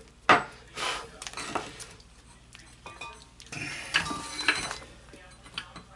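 Small metal tools and parts clinking and scraping as they are handled: a sharp click early, a few short clinks, then a longer spell of scraping and rattling about halfway through.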